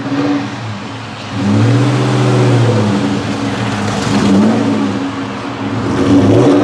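Vortech-supercharged 4.6-litre two-valve V8 of a 2004 Ford Mustang GT, with long-tube headers, catless X-pipe and Borla ATAK exhaust, revving. The engine pitch swings up and back down three times, and it gets louder about a second and a half in.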